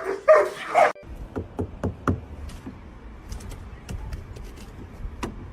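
A dog barking three times in quick succession, followed by scattered soft taps and knocks.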